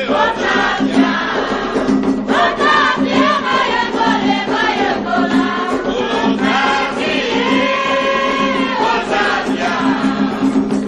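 A group of voices singing an Afro-Brazilian chant for the orixás together, with one long held note near the end.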